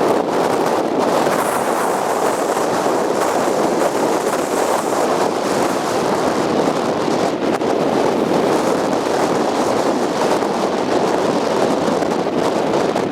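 Strong wind blowing across the microphone: a loud, steady noise with no breaks.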